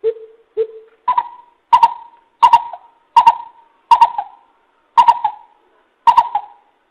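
Coucal (bìm bịp) calling a run of deep hoots: two lower notes, then about eight higher notes at an even pace of roughly one and a half a second. It is played as a loud recorded lure call for trapping, and each note starts with a sharp click.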